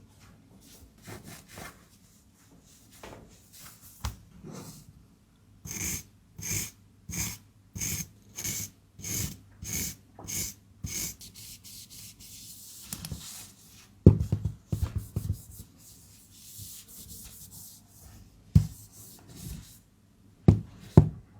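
Hands handling packaging for a phone order. Soft scattered rubbing gives way, about six seconds in, to a run of about nine evenly spaced rubbing strokes, roughly one and a half a second. Then come a few sharper knocks and taps.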